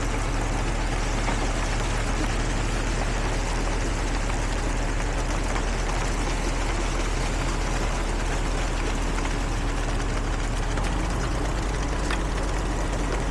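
Heavy diesel construction machinery running steadily, a constant low engine rumble mixed with mechanical noise.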